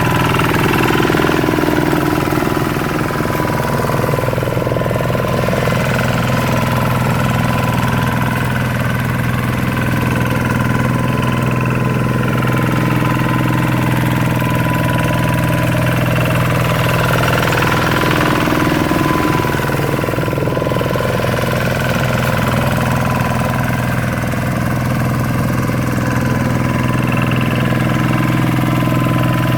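Hand tractor's Kubota RV125-2 single-cylinder diesel engine running steadily at an even speed.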